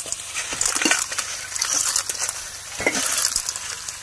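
Food sizzling in a hot pan over a camp stove, a steady hiss with irregular crackles.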